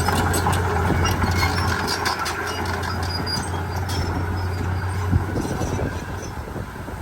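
Heavy diesel machinery engine running steadily with a low hum, with scattered light clinks and a single knock about five seconds in; the hum eases off slightly near the end.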